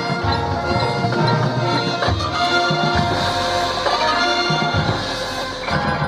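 High school marching band playing, brass holding long full chords over drums.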